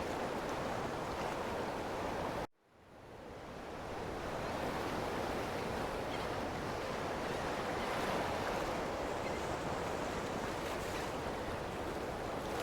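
Ocean waves washing on shore as a steady wash of noise. It cuts out abruptly about two and a half seconds in, then fades back up over a second or so.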